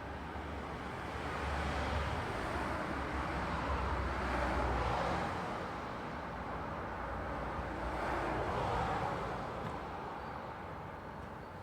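Road traffic: the tyre and engine noise of passing vehicles, swelling twice as cars go by and fading near the end.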